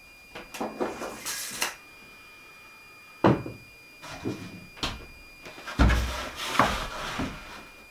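Wooden wall boards being handled and fitted: a scraping, rustling stretch, then several sharp knocks of wood on wood, the loudest about three seconds in and near six seconds, with more scraping after them.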